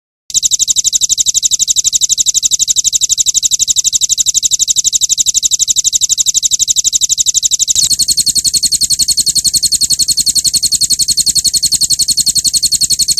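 A bird's very fast, unbroken trill of rapid sharp high notes, a 'roll tembak' rattle used as a training track for songbirds. About eight seconds in it switches straight into a slightly different-pitched roll.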